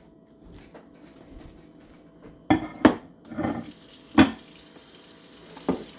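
A microwave turntable plate clattering against the sink, four sharp clacks in the second half, as it is set down to soak; the tap starts running about halfway through.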